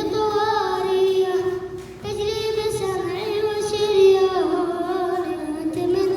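A boy singing a devotional nasheed, holding long wavering notes with vocal ornaments. There is a short break for breath about two seconds in.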